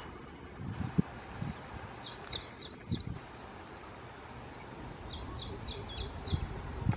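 A bird calling in two quick runs of short, repeated high chirps, one about two seconds in and one about five seconds in, over a low outdoor rumble with a few dull thumps.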